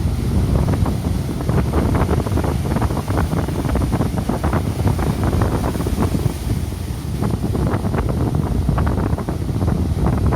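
Strong wind buffeting the microphone over rough sea surf, with much crackling splash and spray noise, as high waves break in typhoon winds.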